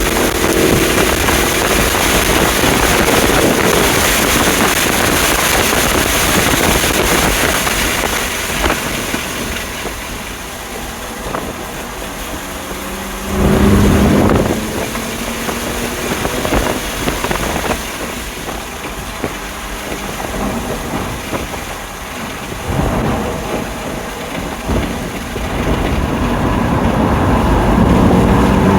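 Onboard sound of a 2020 BMW M2 Competition driven hard on track: its twin-turbo straight-six under heavy wind and road noise. The engine eases off about ten seconds in, surges briefly around fourteen seconds, and climbs in pitch again under throttle near the end.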